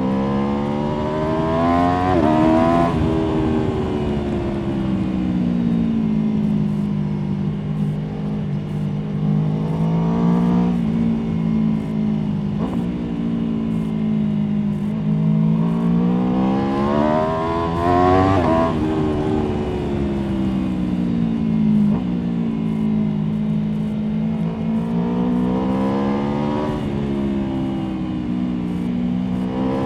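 Aprilia Tuono V4 motorcycle's V4 engine heard from onboard, revving up hard and then dropping back several times as the bike accelerates and slows through a run of bends, with a rush of wind and road noise underneath.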